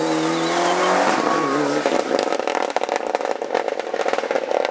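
Rally car accelerating hard, its engine note climbing for about a second. After a quick gear change the engine runs on briefly, then gives way to a dense, rapid crackling.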